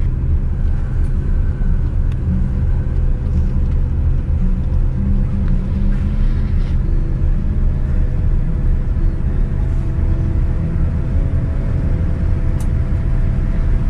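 Boeing 787-9 cabin noise while the airliner taxis after landing: a steady low rumble, with a faint whine that rises slightly about halfway through.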